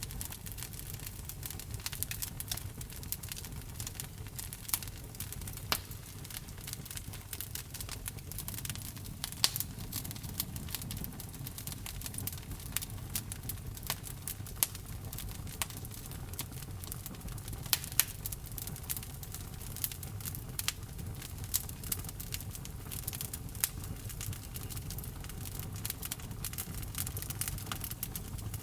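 Wood fire burning in a fireplace: a steady low rumble under frequent sharp crackles and pops from the burning logs.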